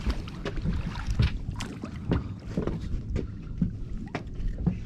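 Sound aboard a small fishing boat: a steady low rumble with wind on the microphone, and scattered knocks and clicks at irregular intervals.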